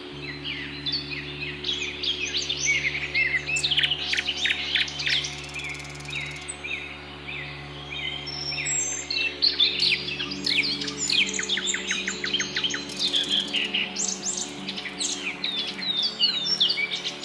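Several wild birds singing and chirping at once in a morning chorus: many overlapping short, high chirps and quick sweeping notes, with a fast rattling trill about two-thirds of the way through. A steady low hum runs underneath.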